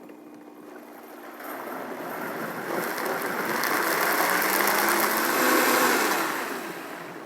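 Vitamix blender running on a jug of cooked brown rice and water to make rice milk: a low motor hum at first, then a loud whir that builds for a few seconds, peaks, eases off and cuts off.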